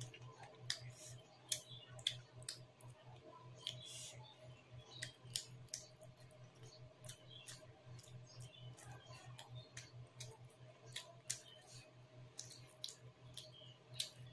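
Close-up eating sounds: wet mouth clicks and smacks from chewing chicken and rice with the mouth open, sharp and irregular, a couple a second. A low steady hum runs underneath.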